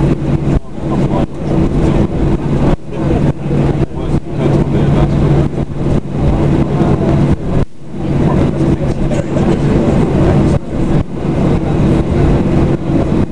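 Boeing 737-800's CFM56 jet engines running loud, heard from inside the passenger cabin as a steady roar with a low hum under it. The sound dips briefly again and again.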